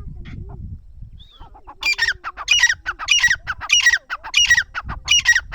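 A francolin (teetar) calling: after a quieter start with low rumble, a loud run of harsh, rapidly repeated notes begins about two seconds in, about three a second, each with a falling pitch.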